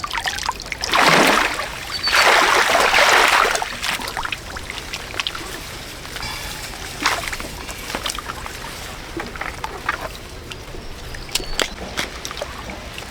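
Water splashing and sloshing: two heavy splashes, one about a second in and a longer one from about two to four seconds in, then smaller splashes and light knocks.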